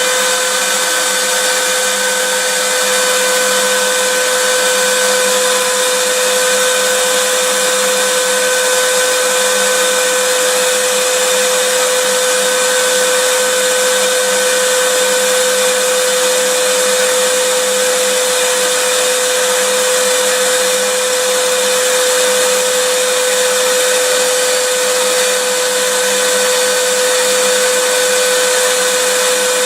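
Vacuum cleaner running steadily: a rush of air with a constant motor whine over it and a few fainter steady tones higher up, with no change in pitch or level.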